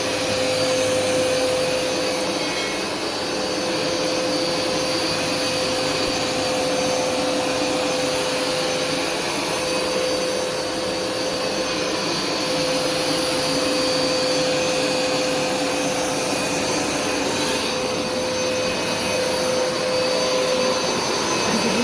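Hoover Smartwash carpet washer running steadily while it scrubs and suctions carpet. Its motor noise holds a steady hum throughout.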